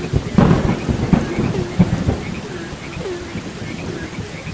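Thunder rumbling over steady rain, loudest in the first two seconds and then easing off. Frogs call throughout in short, regularly repeated croaks.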